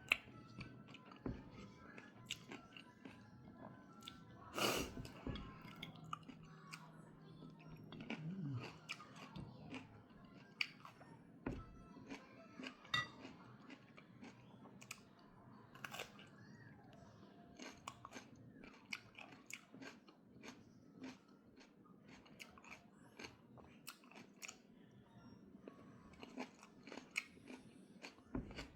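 Close-up chewing with many small, crisp crunches of food.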